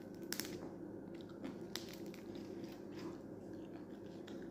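Faint chewing and a few soft clicks of fingers picking apart a fried fish, over a steady low hum.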